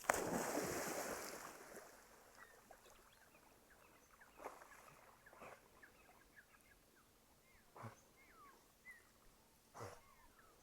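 A splash in river water right at the start that dies away over about two seconds, followed by faint bird chirps scattered throughout, with a few soft knocks.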